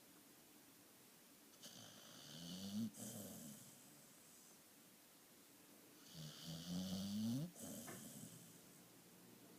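A sleeping dog snoring: two long snores about four seconds apart, each rising in pitch as it goes.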